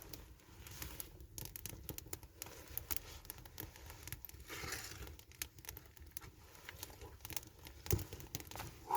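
Wood campfire crackling, with scattered irregular pops and snaps and one heavier knock near the end.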